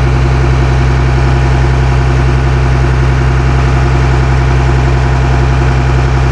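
Cummins ISC 8.3-litre turbo diesel of a rear-engine school bus idling steadily.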